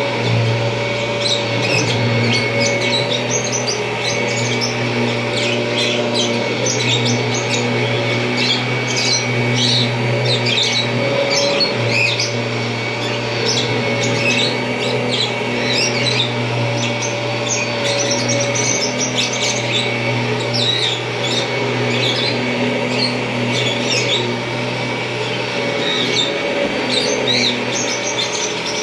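1991 Kirby Generation 3 upright vacuum cleaner running steadily, a constant hum with a high whine, with many quick high-pitched chirps scattered over it.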